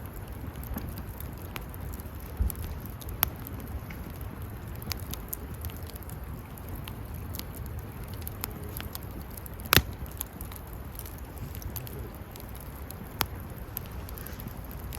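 Wood campfire crackling, with scattered small pops and one sharper, louder pop near the middle, over a low steady rumble.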